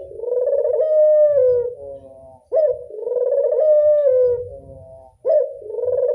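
Burung puter (Barbary dove) cooing: a short sharp opening note followed by a long coo that falls slightly in pitch. The phrase repeats three times, about every two and a half seconds.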